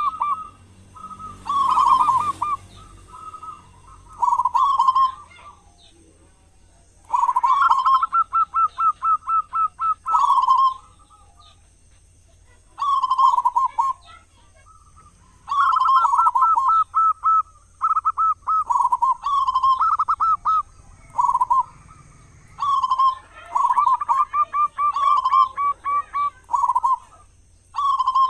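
Zebra dove (perkutut) cooing, repeating its song: phrases of quick, rolling coo notes with short pauses between them. A brief rush of noise comes about two seconds in.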